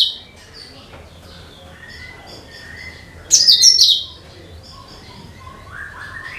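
Cucak kinoi singing: a loud, rapid burst of high chirping notes about three seconds in, with softer chirps and short whistled notes between the bursts, which come every few seconds.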